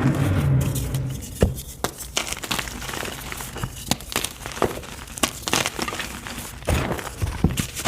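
Block of white gym chalk being crushed, a soft crumbling crunch with many small sharp crackles as it breaks apart.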